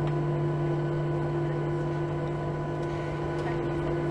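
Steady hum of a Southwest Boeing 737's jet engines idling, with cabin air noise, heard from inside the cabin while the plane holds before take-off.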